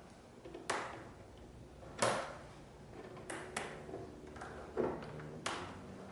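Plastic cable ties being fastened and pulled tight around a boat seat's footing on a kayak: a series of sharp clicks and knocks, about six in six seconds, the loudest about two seconds in.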